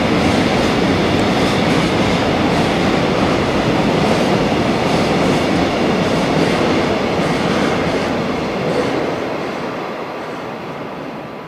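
Freight train's container wagons rolling past, a steady rumble with the wheels clattering rhythmically over the rail joints, fading away over the last few seconds.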